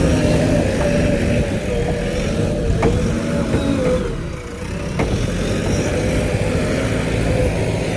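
JCB backhoe loader's diesel engine running steadily, easing off briefly about halfway through and then picking up again, with two sharp knocks.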